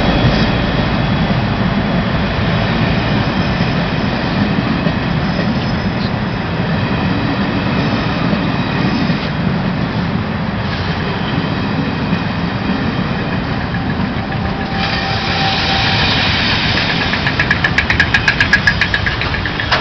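A train of passenger coaches rolling past with a steady rumble of wheels on rail. It grows louder about fifteen seconds in as the Class 57 diesel locomotive at the rear draws level, and a quick run of wheel clicks over the rail joints comes near the end.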